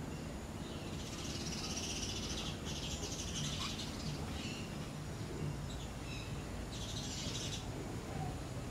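A parrot gives harsh, buzzy screeches: two long ones close together near the start and another about seven seconds in, with short chirps between them.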